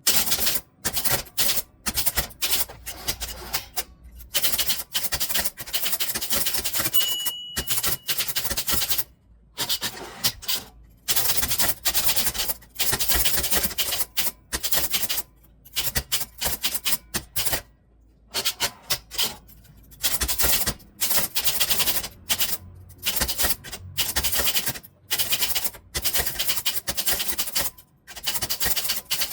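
Typewriter being typed on: quick runs of sharp key strikes broken by short pauses, with a brief ringing tone about seven seconds in.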